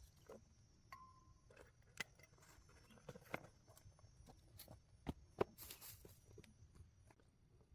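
Sparse light clicks and knocks over a faint low background, the sharpest one about five and a half seconds in.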